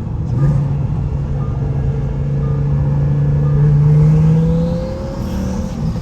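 Twin-turbo Lamborghini engine pulling under acceleration, its note climbing steadily for about four seconds with a faint rising whine above it, then easing off near the end.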